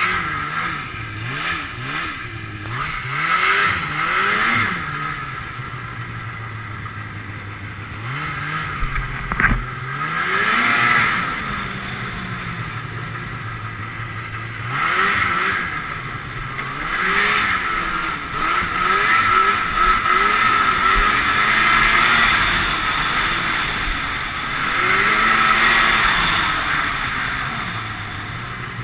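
Ski-Doo Blizzard 5500 snowmobile's fan-cooled Rotax twin two-stroke engine revving up and down again and again while being ridden. There is one sharp knock about nine and a half seconds in.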